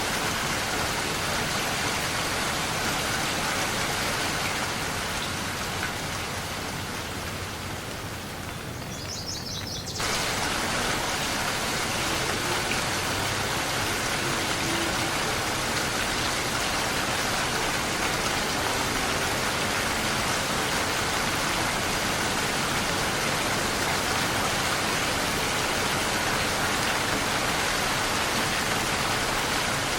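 Steady rain. A few seconds in it softens and loses some of its hiss, then cuts back abruptly to full strength about a third of the way through.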